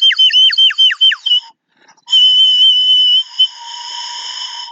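Bird-like whistled song: a run of quick falling whistles that slow down, then after a short gap a held, slightly wavering whistle that drops to a quieter steady note.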